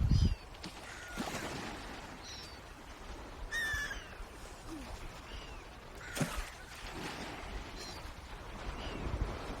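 Birds calling: short high calls that glide downward, repeating every second or two, with one louder, harsher call about three and a half seconds in, over a steady outdoor background and a couple of low thumps.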